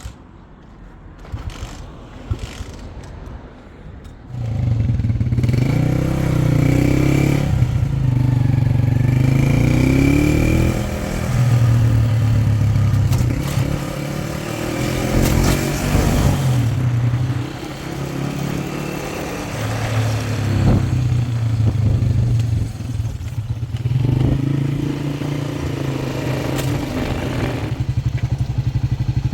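A motor vehicle's engine comes in loud about four seconds in and keeps running, its revs rising and falling repeatedly, with some clatter.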